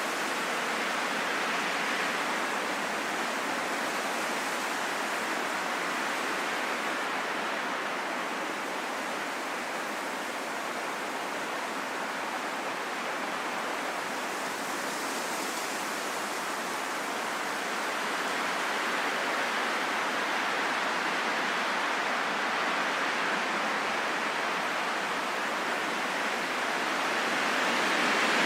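Steady wind, a soft even rushing with no howl, that swells and eases slowly and grows a little louder near the end.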